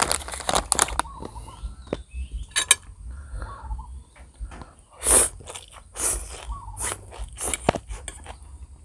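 A person eating instant noodles and sausage close to the microphone: an irregular run of short chewing and biting sounds, the loudest a little past halfway through.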